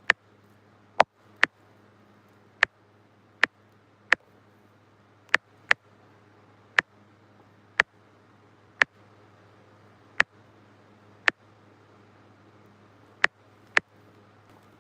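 Sharp single clicks, about fifteen of them at irregular intervals of roughly half a second to two seconds, over a steady low hum.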